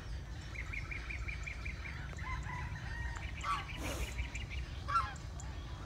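Birds calling over a steady low rumble: a quick trill of about eight chirps a second, then a held note and a few short calls.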